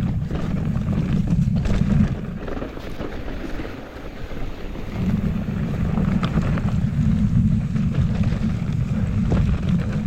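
Wind buffeting the microphone of a mountain biker riding fast, a heavy low rumble that eases about two seconds in and builds again about five seconds in, with a few sharp clicks and knocks from the bike on the trail.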